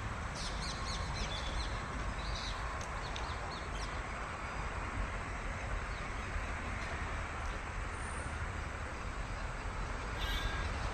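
Birds chirping over a steady low rumble, with the chirps mostly in the first few seconds.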